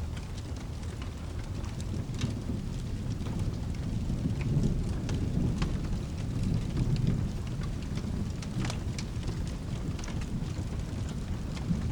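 Thunder rumbling low and steady over rain, swelling louder about halfway through, with scattered sharp ticks of drops or crackles.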